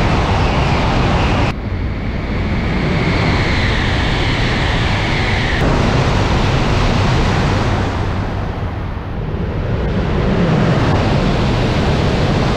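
E3 series Shinkansen trains running through a station at speed without stopping: a loud rush of wind and rail noise, cut sharply twice as one passing train gives way to the next. In the first of these clips a faint high whine slides slightly down.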